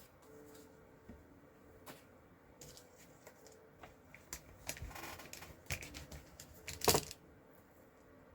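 Scattered light clicks and taps of stamping supplies and cardstock being handled on a craft table, with one sharper knock about seven seconds in.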